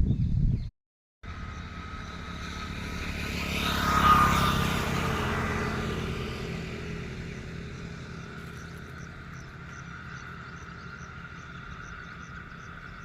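A motor vehicle engine passes by, growing louder to a peak about four seconds in and then slowly fading away.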